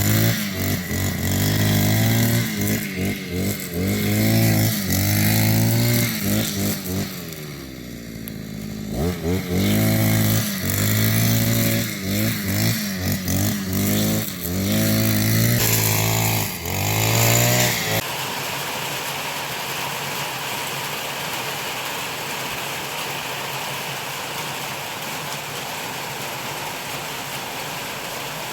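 Small petrol engine of a grass-cutting machine, revving up and down over and over as it cuts. About two-thirds of the way in it cuts off abruptly and steady rain hiss takes over.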